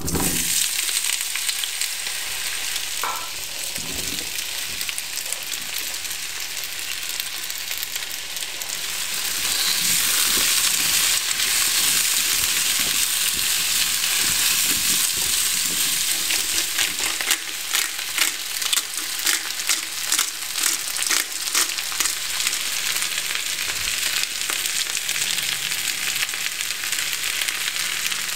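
Food frying in hot oil in a pan: a steady sizzle that gets louder about ten seconds in, with sharp crackles and spatters from about halfway on.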